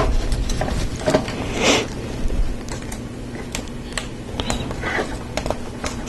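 Lego Technic plastic parts clicking and clacking as pieces are handled and pressed together, with irregular sharp clicks throughout and a brief rustle of parts about a second and a half in.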